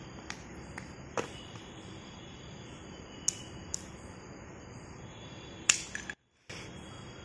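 Steady high chirring of crickets at night, with a handful of sharp clicks and taps, the loudest about six seconds in, after which the sound cuts out for a moment.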